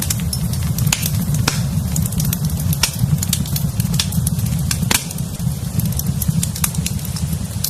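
Wood fire burning in a fireplace: frequent sharp, irregular crackles and pops over a steady low rumble.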